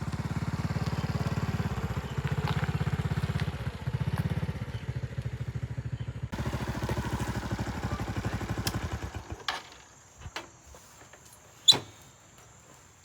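A small engine running with a fast, even pulse that fades out about nine or ten seconds in. A few clicks follow, with one sharp, loud click near the end.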